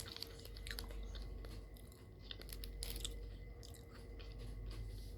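A person chewing a KitKat chocolate-covered wafer, with scattered crisp crunches of the wafer between the teeth.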